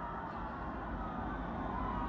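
Fire engine siren wailing, its pitch sliding slowly down and then rising again near the end, over the low rumble of the truck.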